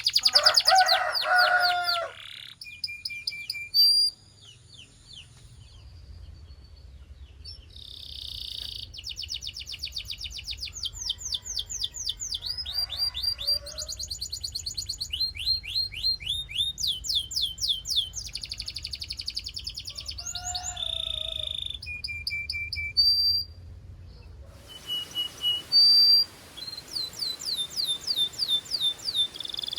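Canary singing in phrases of fast repeated notes, each phrase a rapid trill that changes to a new one, with short breaks between them.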